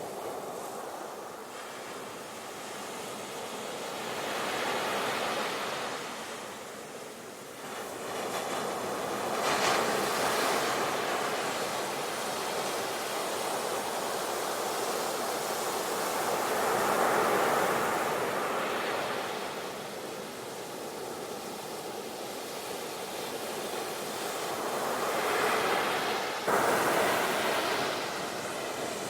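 Sea waves breaking and washing on a shore, a rushing noise that swells and fades every few seconds as each wave comes in. There is a sudden jump in loudness near the end.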